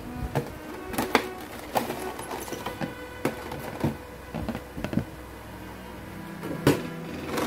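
A scattered series of sharp clicks and knocks from figures and their packaging being handled, over quiet background music.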